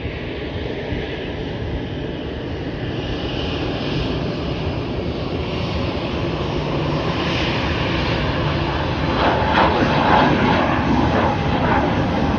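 Jet airliner's engines, a steady noise that grows gradually louder, loudest in the last few seconds.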